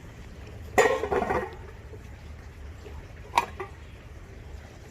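A loud knock with a short rattling ring about a second in, then a single sharp click a few seconds later.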